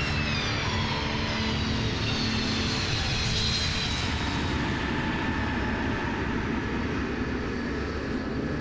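The C-5 Galaxy's turbofan jet engines running with a steady rush. Their whine falls in pitch over the first few seconds, as the engines wind down during the landing rollout.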